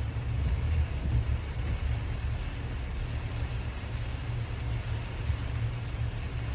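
Car driving in heavy rain, heard from inside: a steady low rumble of road and engine noise with an even hiss of rain and wet tyres.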